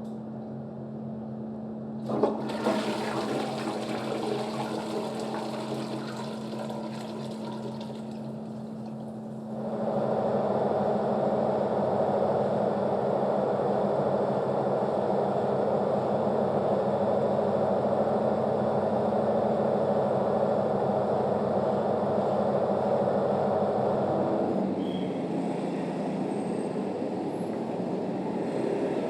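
Water rushing, beginning with a sharp click about two seconds in, growing louder about ten seconds in and easing off near the end, over a steady low hum.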